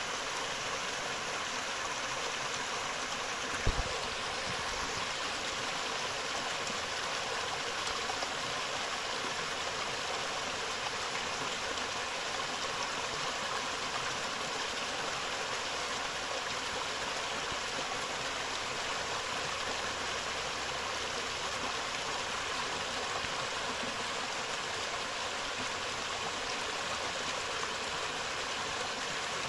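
Forest river flowing: a steady rush of running water, with one brief low thump about four seconds in.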